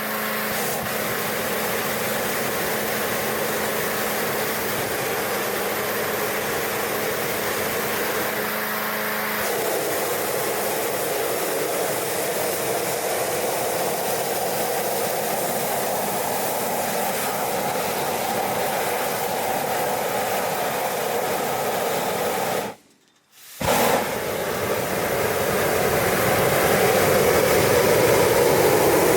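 Hot air balloon's propane burners and gas-engine inflator fan running during hot inflation, a steady rushing roar with an engine hum beneath. It breaks off for about a second near the end, then comes back a little louder.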